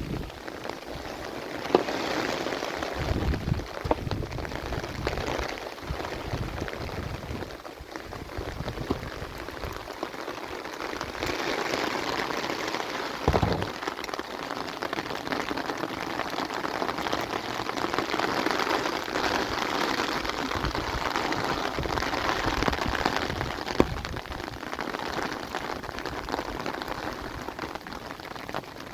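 Steady rain falling and pattering on surfaces, with a few sharp knocks and low thumps now and then.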